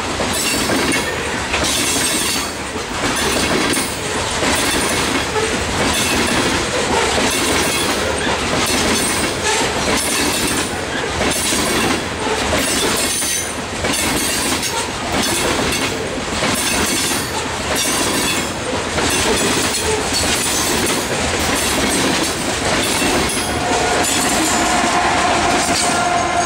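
Loaded coal hopper cars rolling past close by, their wheels clacking steadily over the rail joints. Near the end the train's rear pusher locomotive comes alongside, adding a steady engine hum.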